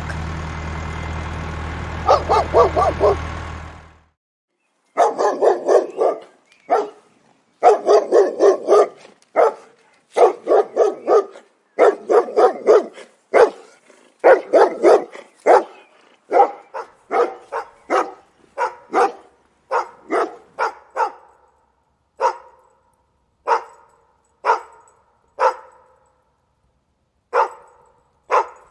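A dog barking in quick runs of several barks, which thin out to single barks about a second apart near the end. A steady low hum sits under the first few seconds.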